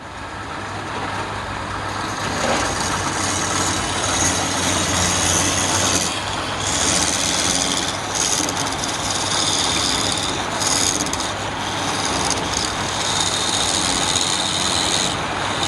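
Wood lathe running steadily with a constant motor hum, and a hiss that swells and fades.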